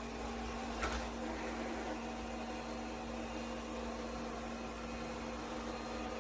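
ECOVACS Deebot T50 Omni robot vacuum running with a steady motor hum and a constant tone, with one short click about a second in.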